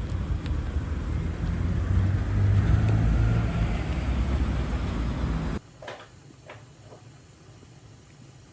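Steady low rumble of a moving road vehicle, cut off suddenly about five and a half seconds in, then a much quieter room with a few faint clicks.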